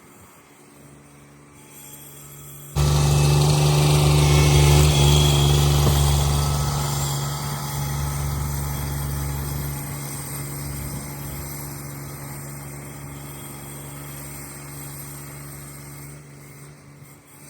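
Cub Cadet 1782 garden tractor engine running steadily. It comes in suddenly about three seconds in, then grows gradually quieter.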